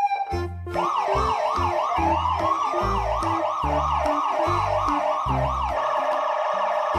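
An electronic siren warbling in short rising sweeps, about three a second, starting about half a second in, over background music with a steady bass beat.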